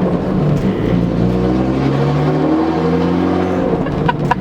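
Straight-piped BMW E36 exhaust, loud inside the car's cabin while driving, its pitch stepping up and down several times with throttle. A few sharp clicks near the end.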